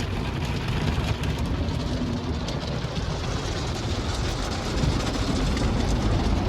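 Tunnel car wash heard from inside the car: wrap-around brushes scrubbing the car body amid spraying water and a steady low machinery rumble, with faint scattered ticks of brush strips and water hitting the car.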